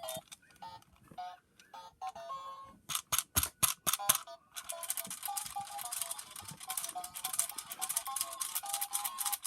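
Tinny electronic melody of short stepping notes from a small speaker, over rapid clicking. It breaks off briefly early on and restarts about three seconds in.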